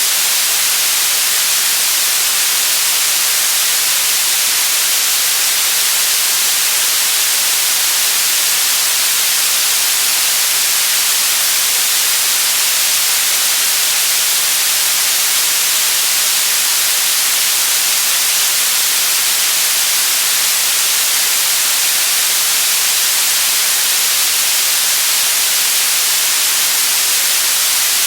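Generated white noise: a steady, even hiss with no variation.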